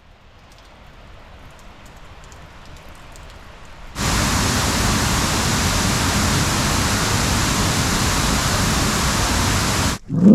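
Waterfall rushing: a faint hiss of falling water that grows slowly for about four seconds, then switches suddenly to a loud, steady rush of water close up, which stops abruptly near the end.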